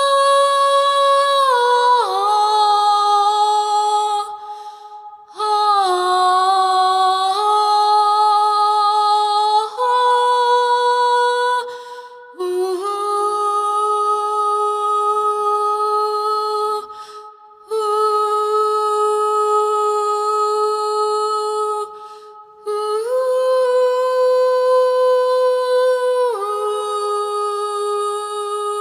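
A person humming long, held notes that step between a few pitches, pausing briefly for breath every few seconds.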